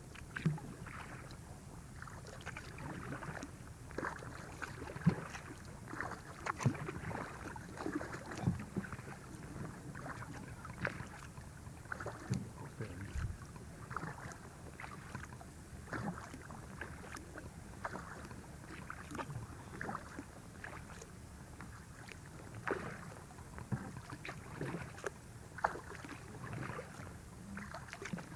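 Thin sheet ice cracking and breaking against a kayak pushing through it, with irregular sharp cracks and crunches, one or two a second.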